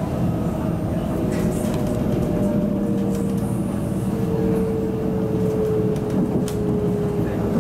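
MTR SP1900 (IKK) electric train running, heard from inside the passenger car: a steady rumble with a whine that slowly falls in pitch.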